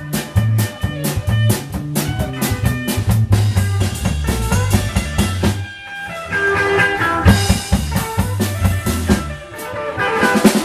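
Blues band playing live: drum kit keeping a steady beat under a bass line and guitar. The band stops briefly about six seconds in, then comes back in.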